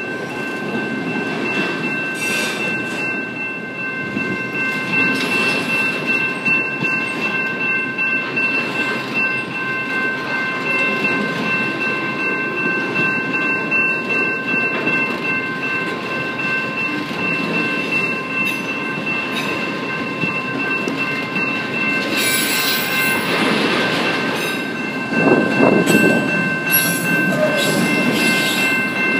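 Canadian Pacific freight train of autorack cars rolling past, its wheels rumbling and clattering on the rails. Steady high ringing tones sound over it throughout. The passing noise gets louder in the last few seconds as the cars go by close at hand.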